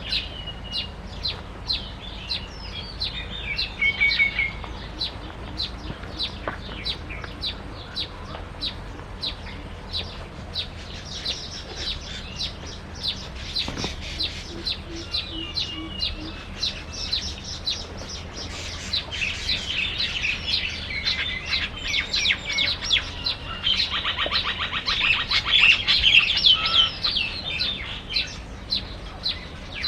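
Small songbirds chirping: short high chirps repeating about twice a second, with several stretches of busier twittering and a fast trill in the second half.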